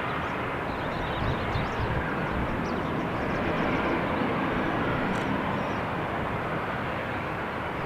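Steady jet engine noise of an airliner passing, swelling slightly around the middle.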